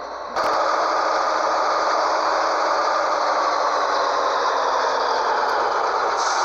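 Scania 113H truck's diesel engine running with a steady rush of noise and a rattle, its note slowly falling; the sound jumps suddenly louder just under half a second in.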